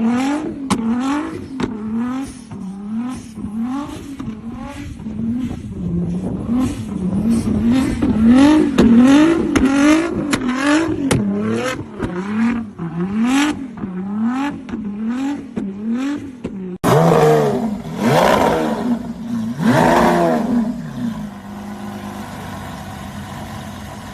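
A sports car's engine is revved over and over in quick blips, about one a second, with sharp cracks from the exhaust between the revs. About seventeen seconds in the sound changes suddenly to two long rev sweeps up and down, then settles to a lower, steady running note.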